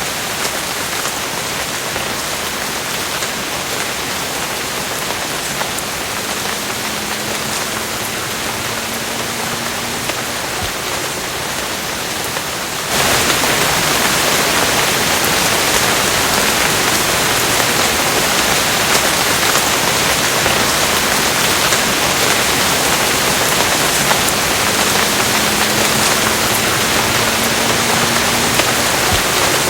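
Steady, even rainfall, with a sudden jump to louder, brighter rain about thirteen seconds in.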